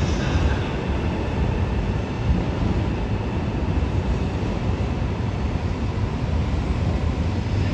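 Passenger train running along the platform: a steady low rumble with hiss, without pauses or sharp knocks.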